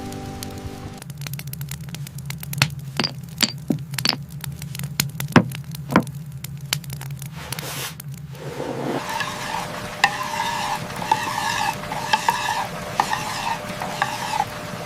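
Wood fire crackling in a fireplace: sharp irregular pops and snaps over a low hum. From about eight seconds in, it turns to a steadier hiss with lighter crackles.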